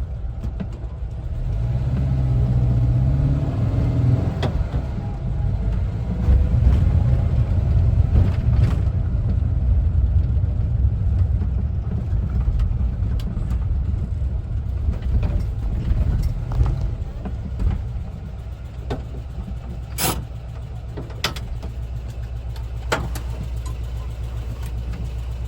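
1974 Volkswagen Westfalia camper's air-cooled flat-four engine running with road rumble, louder and rising in the first several seconds, then settling to a steadier, lower run. A few sharp clicks or knocks come about 20 to 23 seconds in.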